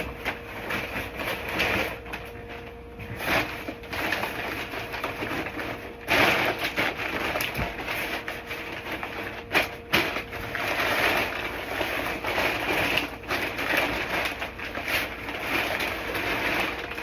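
Empty feed bags being pressed flat and folded by hand, crinkling and rustling irregularly, with a few sharper crackles.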